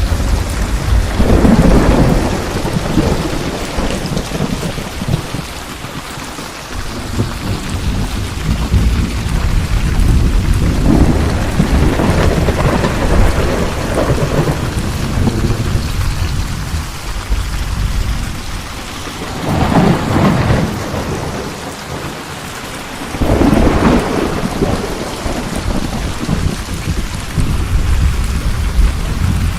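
Steady heavy rain with rolling thunder, several long low rumbles swelling and fading over the rain.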